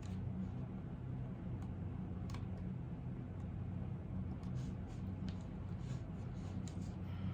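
Typing on a computer keyboard: a few isolated keystrokes, then a quicker run of keystrokes in the second half, over a steady low hum.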